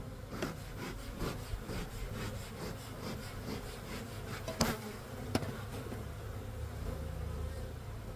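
Honeybees buzzing around an open hive brood box during a frame inspection, with two sharp knocks a little past halfway through.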